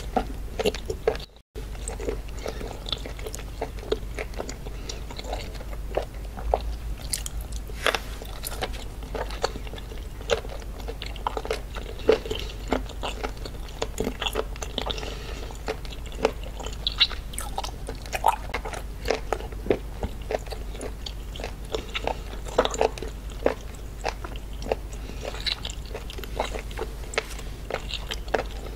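Close-miked chewing and biting of raw seafood by hand, an irregular run of wet sharp mouth clicks and small crunches, with a very short dropout about a second in.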